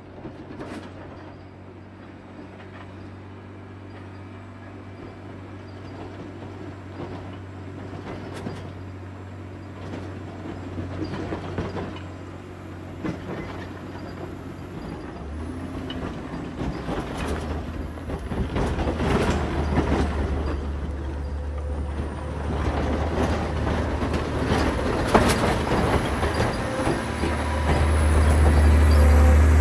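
John Deere 670 motor grader's diesel engine running under load with rattling and clanking throughout. The engine note steps up about halfway through and again near the end, growing louder.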